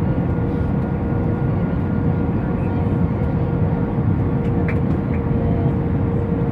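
Steady roar of an Airbus A319's engines and airflow heard inside the cabin during the approach, with a constant whine running through it.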